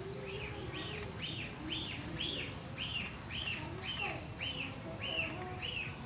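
A bird calling: a steady series of short, high, rising-then-falling whistled notes, about two a second, with softer, lower calls underneath.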